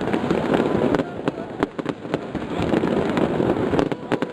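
Fireworks display going off: many sharp bangs and crackles in quick succession over a continuous rumbling wash of bursts.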